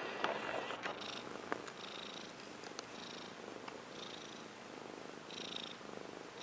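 Russian Blue kitten purring close up, the purr swelling and fading about once a second with its breathing, with a few soft clicks.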